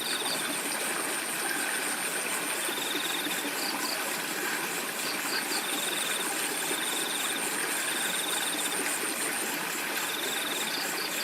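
Flowing river with crickets chirping: a high continuous trill over the water's hiss, and bursts of rapid chirps every second or two.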